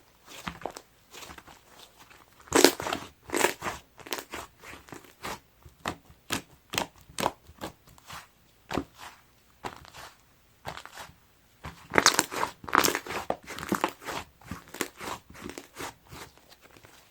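Soft slime mixed with snow clay being squeezed and pressed by hand, making rapid sticky crackles and clicky pops of trapped air. The clicks come thickest twice, about two and a half seconds in and again about twelve seconds in.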